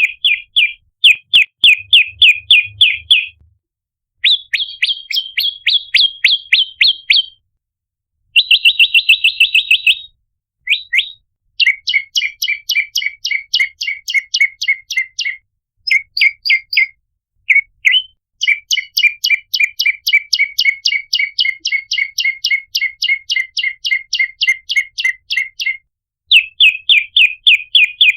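Prenjak lumut calling: rapid runs of sharp, evenly repeated chirps, about four to six a second, each run lasting a few seconds with short pauses between. A faster, tighter trill comes about a third of the way in.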